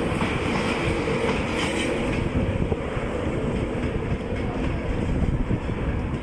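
InterCity 225 train, a Class 91 electric locomotive with Mark 4 coaches, running along the track: a steady rumble of wheels on rail with faint clicks over the rail joints.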